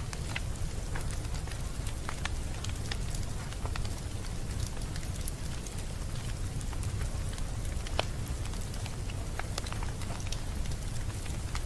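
Wood fire crackling in a fireplace: scattered sharp pops and snaps over a steady low rumble and hiss, with one louder pop near the end.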